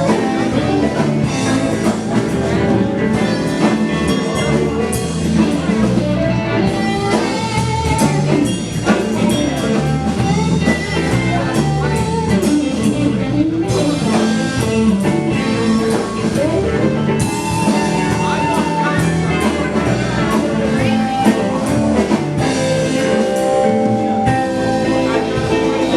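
A live blues band playing: electric guitar and bass over a steady drum kit beat.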